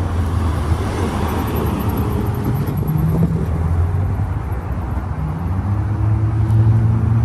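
Engine running with a steady low hum that swells and rises slightly in pitch near the end.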